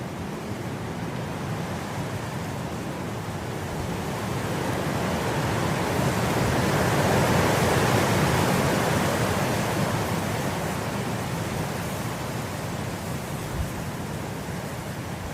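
Wind blowing through grass: a steady rushing hiss that swells into a stronger gust around the middle and dies back down.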